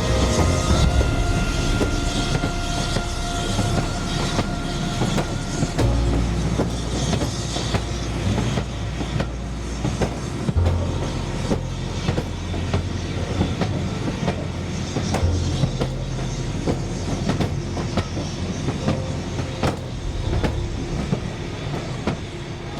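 Heritage railway train rolling along the track: a steady rumble with a run of sharp clicks as the wheels cross the rail joints, easing off slightly near the end.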